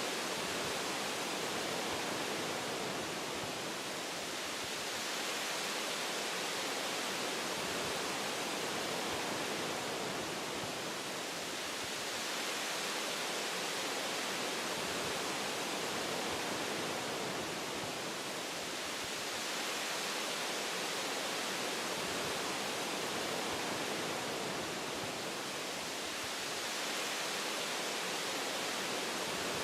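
Wind blowing through forest tree branches, a steady rushing hiss that swells and eases gently every several seconds.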